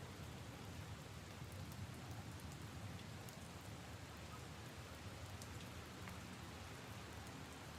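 Steady rain falling on leaves and puddles: an even hiss with scattered individual drops ticking close by.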